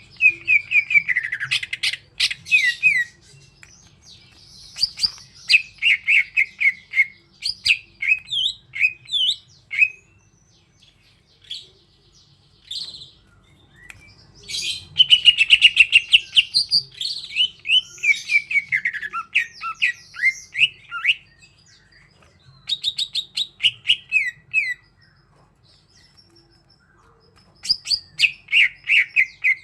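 Cucak ijo (green leafbird) singing: phrases of quick, falling whistled notes mixed with sharp chips, each a few seconds long, with brief pauses between them.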